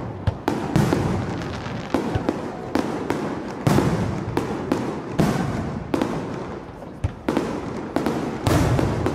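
Aerial firework shells bursting one after another in a display's finale, about a dozen sharp bangs, each less than a second apart and each followed by a fading, echoing rumble.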